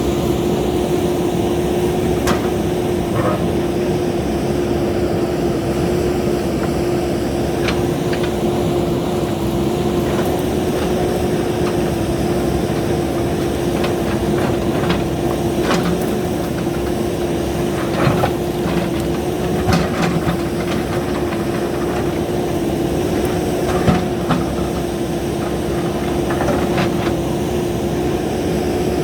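JCB backhoe loader's diesel engine running steadily with a constant hum, with scattered short knocks and clanks over it.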